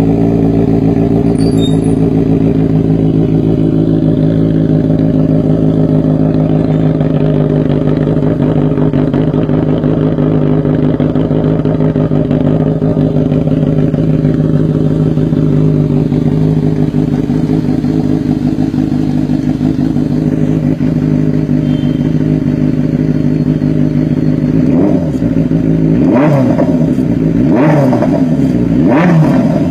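Benelli TNT 600i's inline-four engine, fitted with an aftermarket Toce exhaust, idling steadily, then revved in four quick throttle blips near the end.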